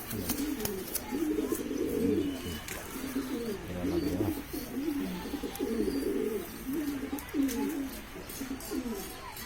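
Several racing pigeons cooing, their low coos overlapping one another throughout.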